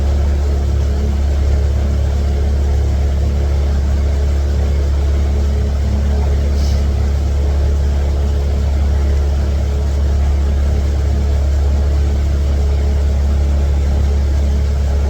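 Small fishing boat's motor running steadily, a loud, even low drone with no change in pitch or level.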